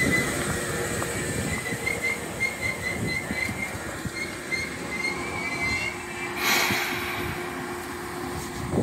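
Seibu Railway electric commuter train running through the station: steady rumble of wheels on rail with a high-pitched wheel squeal coming and going in short pulses. About six and a half seconds in there is a short loud hiss, followed by a steady hum.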